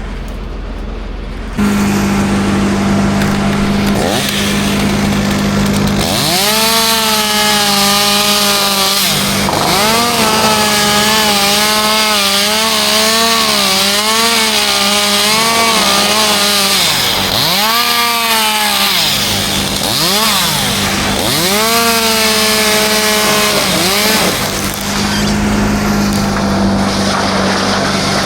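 Chainsaw cutting, its engine revving up and falling back again and again, over a steady lower engine drone that starts suddenly about two seconds in.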